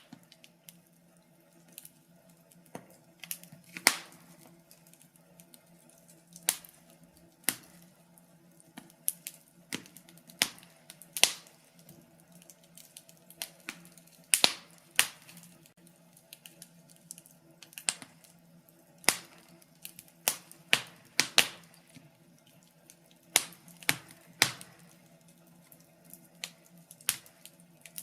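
Wood fire crackling: irregular sharp pops and snaps, sometimes several in quick succession, over a faint low hum.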